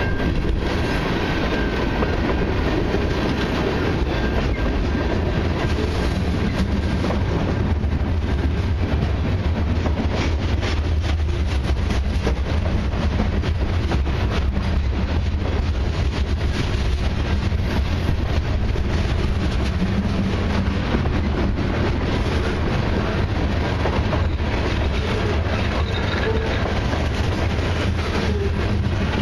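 Freight cars (tank cars and covered hoppers) rolling past close by: a steady, loud rumble of steel wheels on rail with a continual clicking as the wheels cross rail joints.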